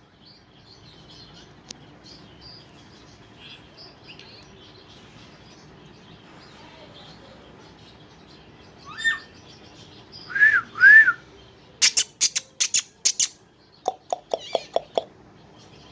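Pet parrot calling: a few short rising-and-falling whistles, then a quick run of sharp squawks and a short burst of chattering notes, over faint chirps.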